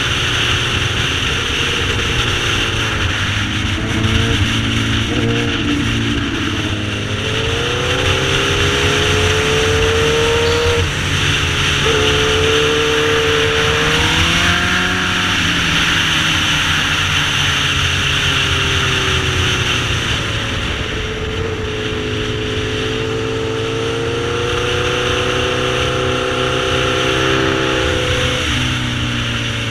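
Sportbike engine running under changing throttle, its pitch climbing and dropping several times, with a steady rush of wind noise over the microphone.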